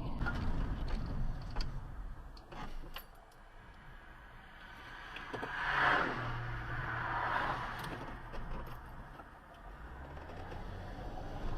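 Car on the road: steady engine and tyre rumble, with a louder rushing swell that builds and fades about halfway through as another vehicle passes.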